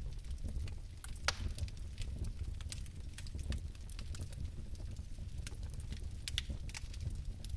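Fireplace fire crackling: irregular sharp pops and snaps over a low, steady rumble of burning, with louder pops about a second in and near the end.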